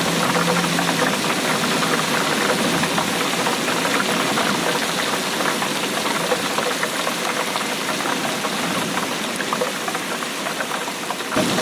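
Steady rain falling hard, a dense crackling patter of many drops. The sound changes abruptly just before the end, as at an edit.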